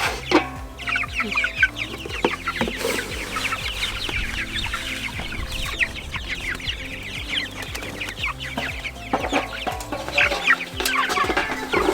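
A flock of young meat chicks peeping continuously while they feed, with many short, high, falling peeps overlapping.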